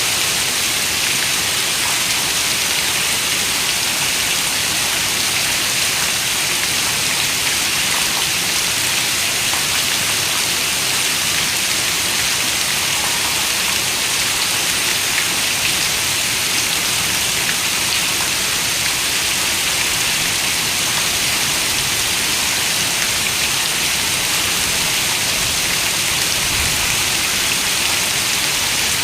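Steady rain falling, an even, bright hiss that holds at the same level throughout, with no thunder.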